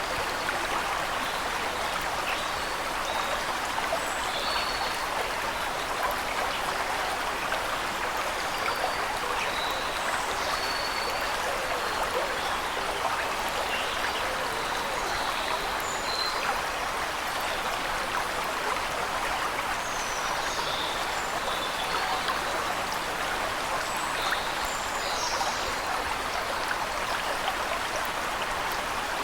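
Waterfall and flowing water rushing steadily, with small birds chirping briefly here and there above it.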